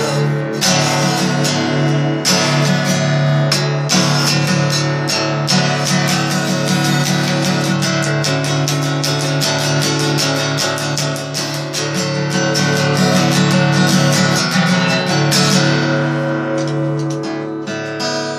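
Acoustic guitar played in an instrumental stretch with no singing: fast, dense strums and picked notes over a held low note, easing off slightly near the end.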